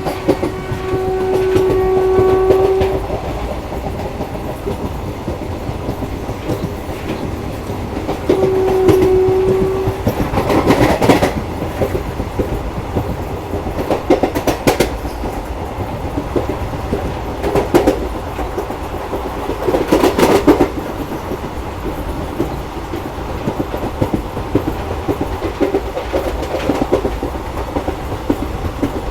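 Koyna Express passenger train running along the track, its wheels clattering over the rail joints with a steady rumble. A horn sounds twice: a long blast of about three seconds at the start, then a shorter one about eight seconds in. The clatter grows louder at a few moments, about 11, 15 and 20 seconds in.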